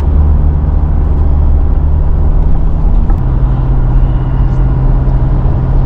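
Car driving: a steady low engine and road rumble. The engine's drone steps down a little in pitch about three seconds in.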